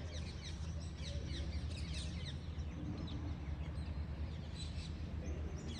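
Small birds chirping, many short quick falling chirps overlapping throughout, over a steady low hum.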